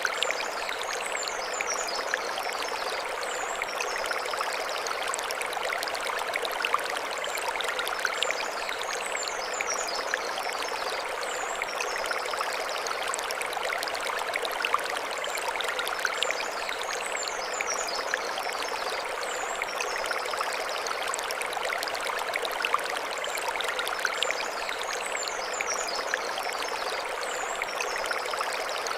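A mountain stream running steadily over stones, with fine splashing throughout. High, quick bird chirps come in short phrases about every eight seconds.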